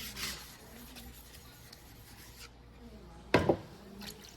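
Steel knife blade scraping across a whetstone in a stroke near the start, then a loud double knock about three and a half seconds in.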